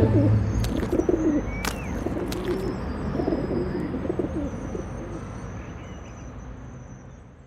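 Pigeons cooing in repeated short low calls, with a few thin high bird chirps, fading out gradually near the end.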